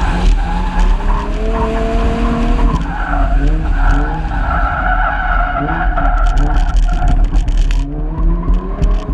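Car engine revving hard and dropping back again and again as the car slides through tight dirt corners, with tyre and dirt noise and a heavy low rumble, heard from the onboard camera beside the driver.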